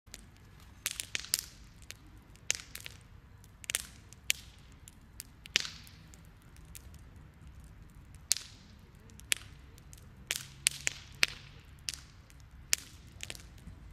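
Wood campfire crackling: irregular sharp pops and snaps, some coming in quick clusters.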